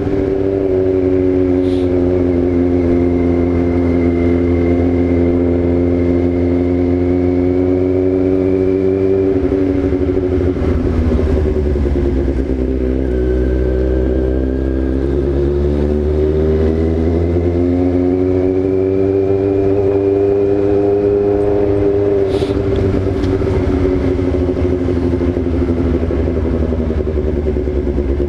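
Yamaha XJ6's inline-four engine running at a steady cruise, then easing off about nine seconds in so the pitch drops, and picking up again a few seconds later to hold steady.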